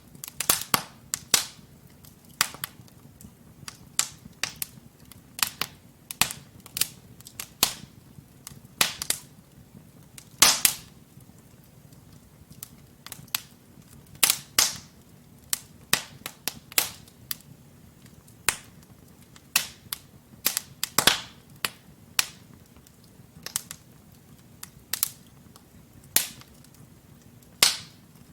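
Wood fire crackling in a fireplace: burning logs giving irregular sharp pops and snaps, several a second at times with louder single cracks scattered through, over a faint low hum of the flames.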